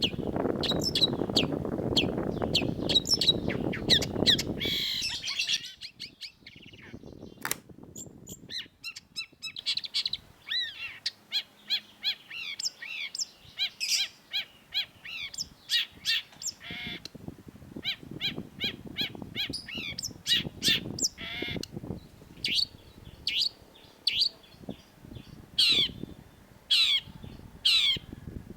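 Long-tailed shrike calling: rapid runs of sharp, high, downward-slurred chirps and harsh notes, broken by short pauses. A low rushing noise lies under the calls for the first five seconds or so.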